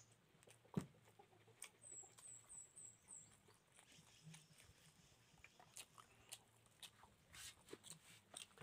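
Near silence with faint chewing and mouth clicks from eating by hand, including one sharper click about a second in. A quick run of about five high bird chirps sounds around two to three seconds in.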